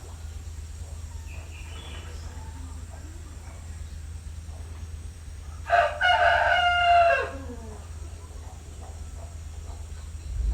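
Rooster crowing once, loud, a little past halfway through, the call held and then dropping in pitch at its end. Fainter fowl calls come before it, over a steady low rumble.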